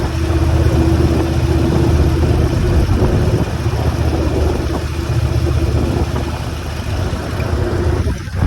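Motorcycle engine running steadily, a constant low drone with a steady higher tone above it that fades out about eight seconds in.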